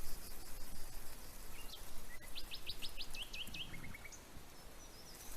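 A small bird chirping: a quick run of short, high chirps about two and a half seconds in, then a few lower chirps, over faint steady background noise.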